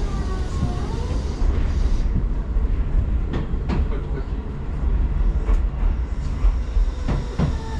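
Tobu line electric commuter train running, heard from inside the carriage: a steady low rumble, with wheels clicking over rail joints several times in the second half. A faint whine falls in pitch during the first second or so.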